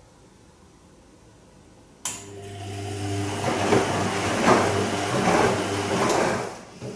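Bosch Serie 2 VarioPerfect washing machine on its Silk programme. About two seconds in, a click sets the drum motor humming, and the drum turns for about four seconds with the wash water and laundry sloshing in regular swishes before it stops, with a short click near the end.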